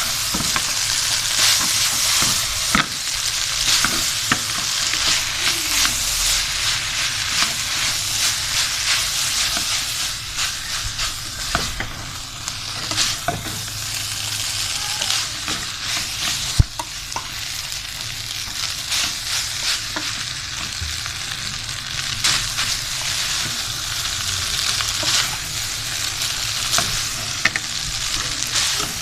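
Boiled noodles and vegetables sizzling in hot oil as they are stir-fried, with a utensil scraping and knocking against the metal pan again and again.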